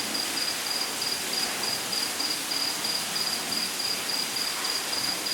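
A cricket chirping in a steady rhythm, about three to four high chirps a second, over an even hiss.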